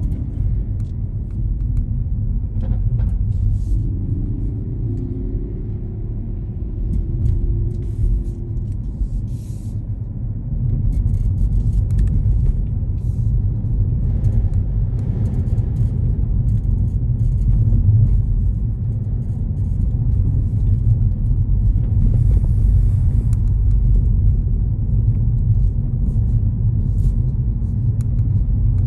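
Steady low road rumble of a car driving through city streets.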